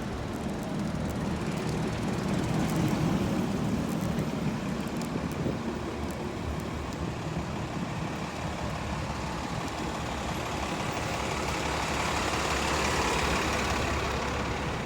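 Road traffic passing, a steady rush of vehicle noise that swells twice: a deeper swell about two to four seconds in and a brighter one near the end.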